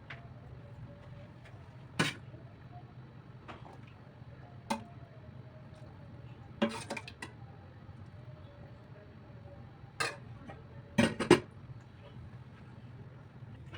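Kitchenware clinking and knocking: several separate short clinks of dishes, glass or utensils being handled, the loudest a quick pair near the end, over a low steady hum.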